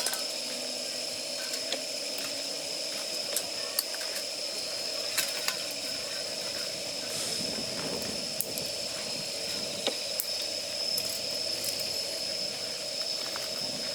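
Steady gas burner hiss playing on damp firewood, with scattered sharp crackles and pops as the wet wood heats.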